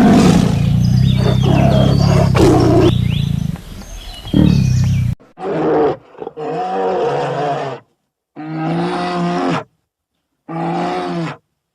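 A large wild animal giving a series of loud, drawn-out roaring calls, each a second or two long with short silences between. They follow a sudden cut from a steady low rumble with birds chirping over it.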